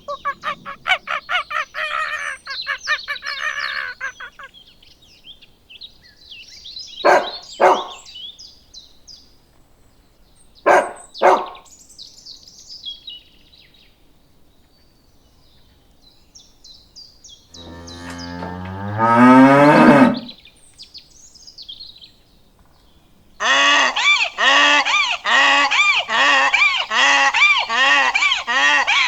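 A series of separate farm animal calls: a fast run of repeated calls at the start, two short loud calls, one long call past the middle, and a long run of quickly repeated calls near the end.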